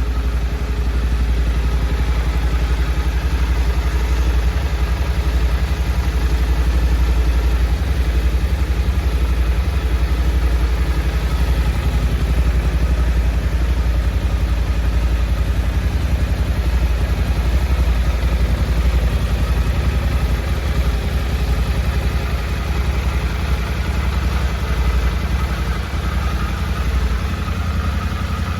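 2024 Suzuki V-Strom 800's 776 cc parallel-twin engine idling steadily.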